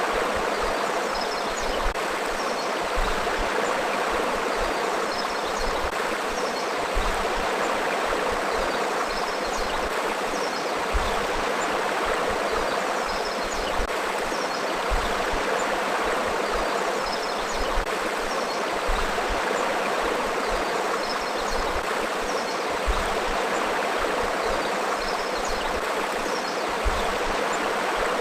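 Forest river flowing in a steady, even rush of water over rocks, with faint high chirps now and then above it.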